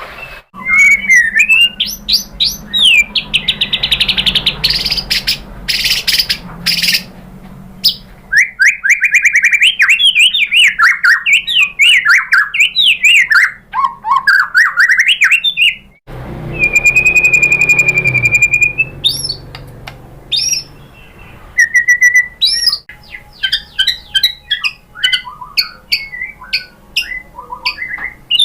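White-rumped shama (murai batu) singing loud, varied phrases of clear whistles, rapid trills and sweeping notes. The song is spliced from several recordings and cuts abruptly from one to the next a few times.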